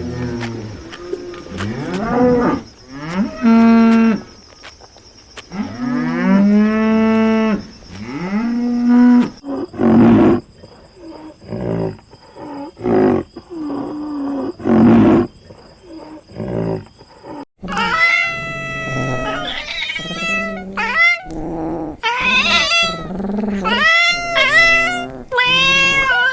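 Animal calls from several clips cut together: long, arching low calls in the first third, a run of short calls in the middle, then higher-pitched wavering cries in the last third.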